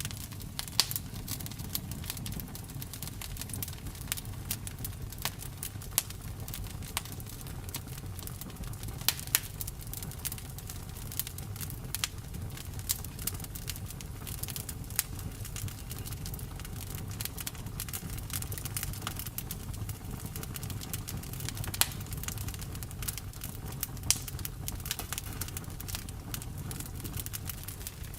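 Campfire burning: irregular crackles and sharp pops of burning wood over a steady low rumble of the flames.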